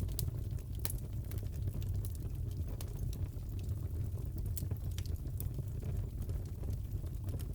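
Crackling fireplace: a steady low rumble of the fire with scattered sharp pops and snaps, several a second.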